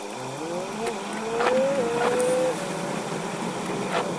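Vehicle engine heard from inside the cabin, rising in pitch as it accelerates, holding steady, then easing off about two and a half seconds in, with heavy rain hissing on the windshield. A few sharp clicks sound through it.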